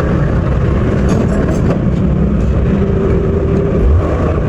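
Steady low rumble of a motor vehicle running, with a faint held tone in the middle.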